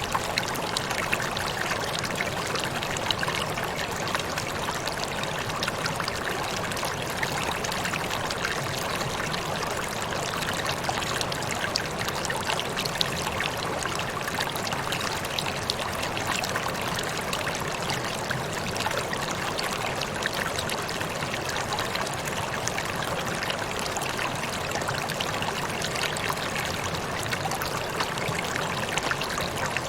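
Waterfall: steady rush and splash of falling water, with fine spattering throughout.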